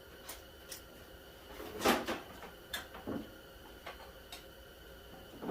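Scattered clicks and knocks of a car's plastic battery tray and tools being handled, with the loudest clunk about two seconds in.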